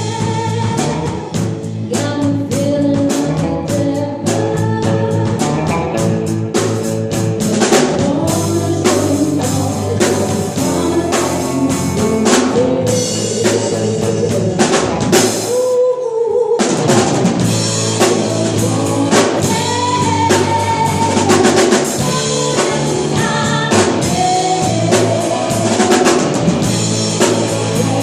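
A live cover band plays a song with a singer, drum kit, bass and guitar, and the drums keep a steady beat. Just past halfway the drums and bass stop for about a second while a single note carries on, then the band comes back in.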